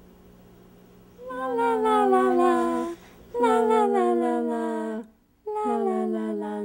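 A woman humming a slow tune in long held notes, each note sliding slightly down at its start, with short breaks between them.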